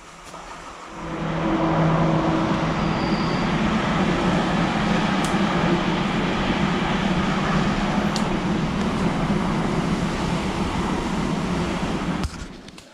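Off-road dirt bike engine rising about a second in to a loud, steady run under throttle, then dropping away suddenly near the end.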